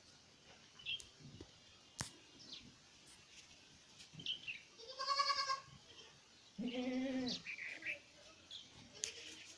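Newborn goat kid bleating: a short high-pitched bleat about five seconds in, then a lower, wavering bleat a second later. Faint short chirps and a sharp click near two seconds in.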